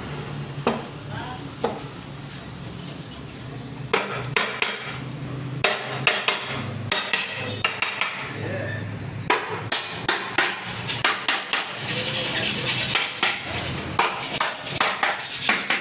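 Metal clinking and knocking as truck gearbox gears, shafts and bearings are fitted into the casing by hand, a few separate taps at first, then a quick run of clinks building up toward the end.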